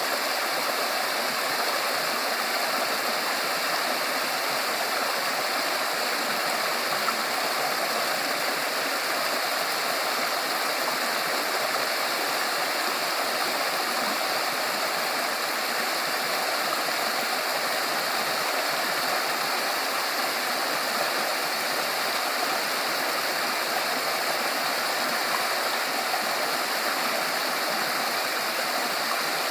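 Mountain valley stream running over rocks: a steady, even rush of flowing water.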